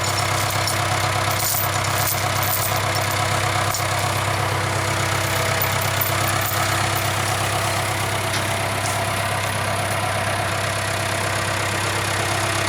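Case 580K backhoe's diesel engine idling steadily.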